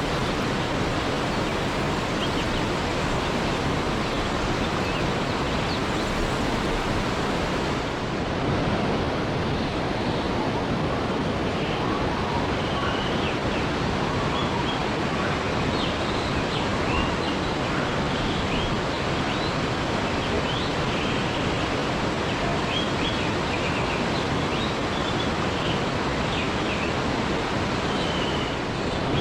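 Waterfall: a steady, even rush of falling water. Short, faint high chirps are scattered over it from about a third of the way in.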